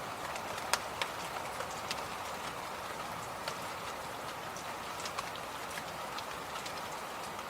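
Electric fan running with a steady whooshing noise, with irregular light clicks scattered through it, a few each second.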